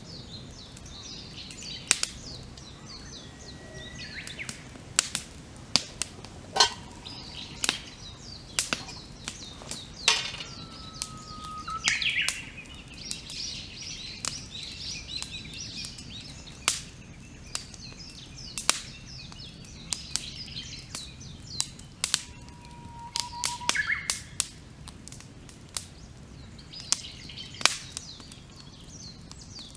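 Wood campfire crackling with frequent sharp pops, while several birds sing and chirp around it, including a few drawn-out whistled notes that sweep upward.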